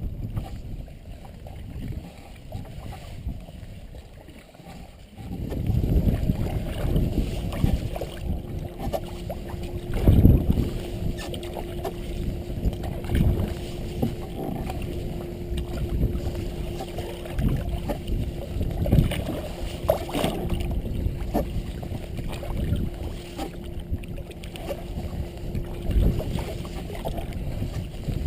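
Canoe under way with water and paddle sounds around the hull, over a low uneven rumble that grows louder about five seconds in.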